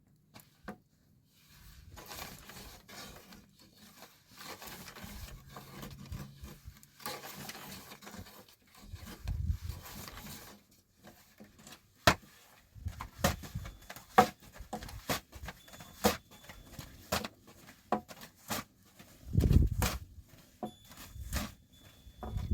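Rustling and scraping as things are handled, then a run of sharp knocks and taps with a couple of heavier low thuds.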